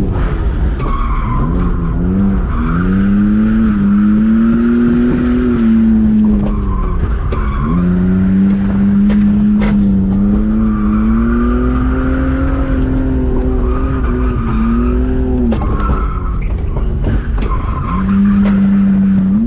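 BMW E46 drift car's engine held at high revs, its pitch rising and sagging while the tyres squeal through long slides. The revs drop sharply and climb back a few times, then hold steady near the end.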